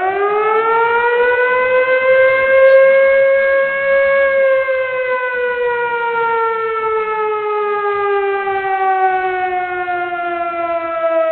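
A siren winding up out of silence, holding one steady wailing note, then slowly sinking in pitch.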